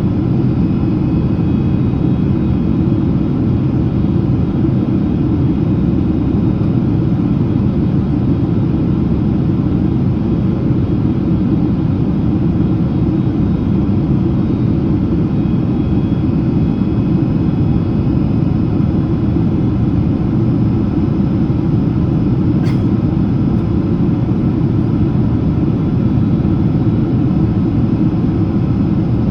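Steady cabin roar of a Boeing 767-300ER in descent: engine and airflow noise, heaviest in the low end, with a single brief click about three quarters of the way through.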